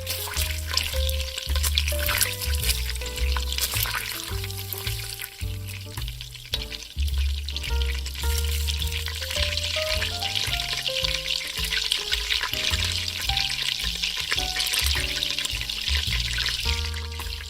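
Food frying in vegetable oil in a pan: a steady sizzle that grows stronger about halfway through, under background music with a repeating bass line and melody.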